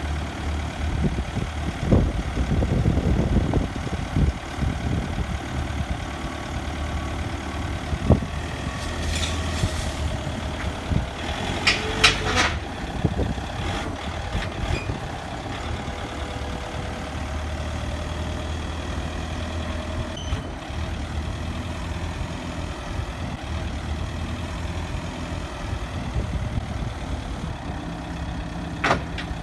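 Forklift truck engine running steadily, with a spell of low rattling a couple of seconds in and a few sharp clanks later on.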